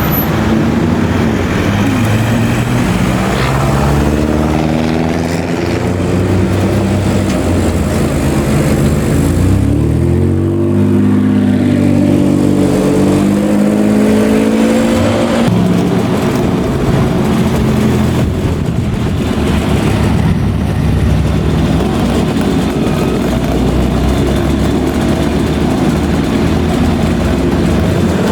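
Classic car engines running loudly, with revving in the middle where the engine pitch rises several times in steps, as if pulling through the gears.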